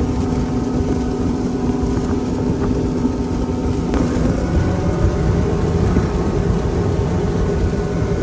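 Boat's outboard motor running steadily under way, with a rough low rumble beneath the engine drone.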